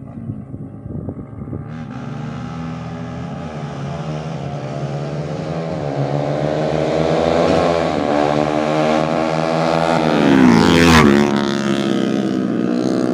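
Racing motorcycles (a Yamaha MX with a 200cc engine and a Honda Sonic) accelerating hard, their engine note climbing in pitch through the gears. They grow louder and pass close by about eleven seconds in, the pitch dropping as they go past.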